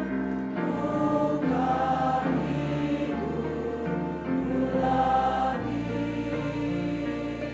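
Church choir singing a hymn in sustained, slow-moving chords over a low bass accompaniment.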